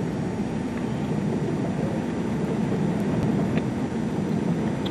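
Steady rumble of a car driving along a road, engine and tyre noise heard from inside the cabin.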